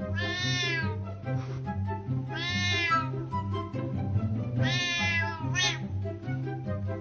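Domestic cat meowing: three long drawn-out meows, each rising and falling in pitch, and a short one just after the third. Background music with a repeating bass line runs underneath.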